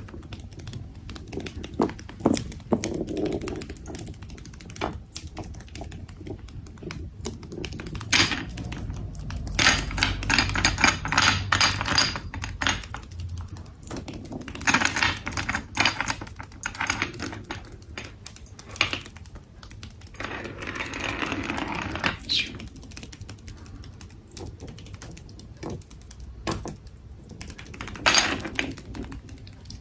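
Parrot making bursts of rapid clicking and tapping sounds, with a short rasping call about twenty seconds in.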